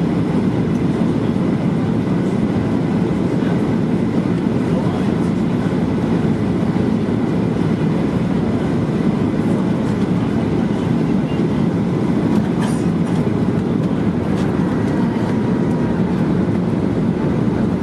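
Steady low rumble of airliner cabin noise: the Boeing 737-800's engines and the airflow, heard from inside the cabin.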